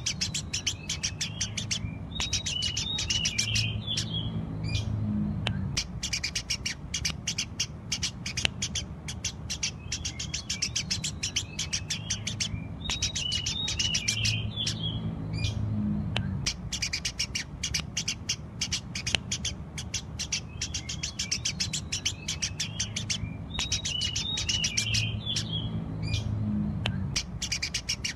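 Eurasian tree sparrows chirping rapidly and without a break, in energetic song. A short twittering chatter breaks in about every eleven seconds, three times. A low hum runs underneath.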